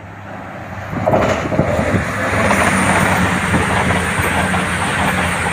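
Diesel intercity passenger train running through a station at speed on the adjacent line. Its rumble swells about a second in and then holds, with a steady low engine hum and the wheels clattering over the rails.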